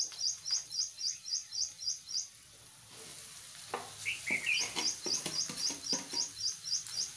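A bird chirping in an even series of short high chirps, about four a second, breaking off about two seconds in and starting again after a couple of seconds. In the gap come a few soft knocks as boiled potatoes are dropped into the steel pan.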